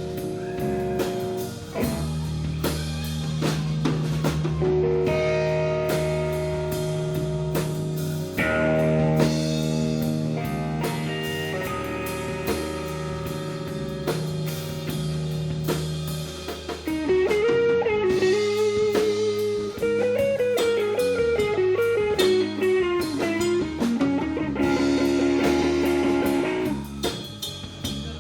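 Blues band playing an instrumental break: electric guitar and bass over a drum kit, with held chords in the first half. Then a lead line with bent, wavering notes takes over for the second half.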